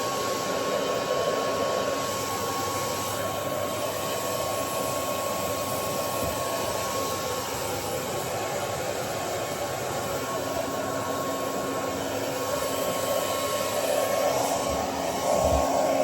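Hair dryer blowing continuously while drying a dog's coat, with a steady thin whine over the rush of air. A lower steady hum joins about ten seconds in, and it gets a little louder near the end.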